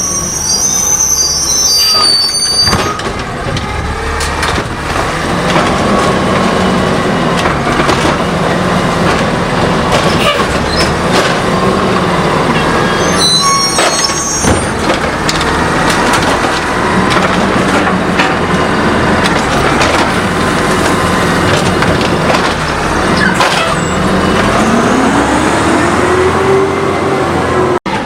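Natural-gas automated side-loader garbage truck running, with short high squeals at the start and again about halfway through. Near the end its engine pitch rises and then falls.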